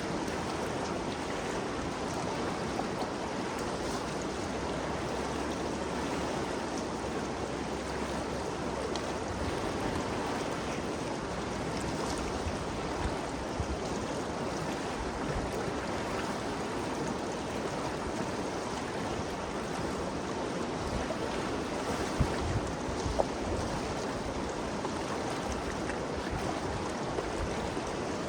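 Ganges River flowing, a steady, even rush of running water. A low rumble sits under it for the first third, and a few brief louder sounds stand out about three-quarters of the way in.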